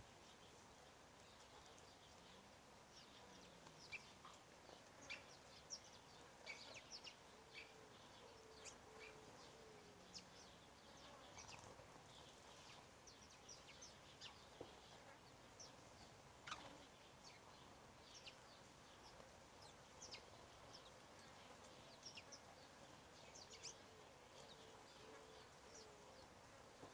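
Several birds chirping with many short, sharp high-pitched notes, some stronger than the rest, over a faint background hiss; twice a run of about five low, evenly spaced call notes can be heard, about a third of the way in and again near the end.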